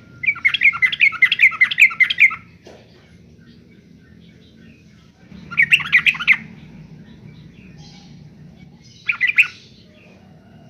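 Yellow-vented bulbul singing three bursts of rapid bubbling notes: a long run of about two seconds at the start, a shorter one midway and a brief one near the end.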